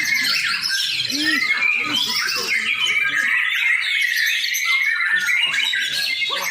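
White-rumped shama (murai batu) singing a fast, unbroken stream of high sliding notes.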